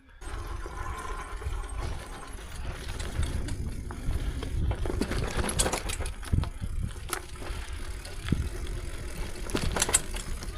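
Bicycle being ridden over a rough dirt track, its frame and parts rattling, with a steady low rumble and scattered sharp clicks and knocks.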